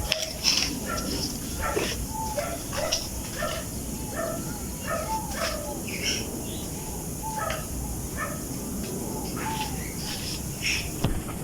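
Birds calling outdoors: many short, rapid chirps repeating about every half second, over a steady low background rumble.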